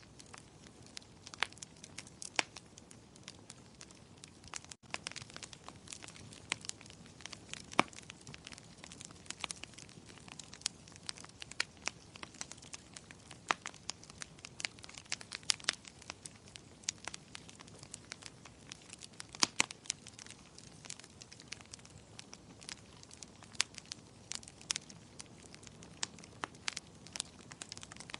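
Wood fire in a fireplace crackling, with irregular sharp pops and snaps over a soft steady hiss of burning.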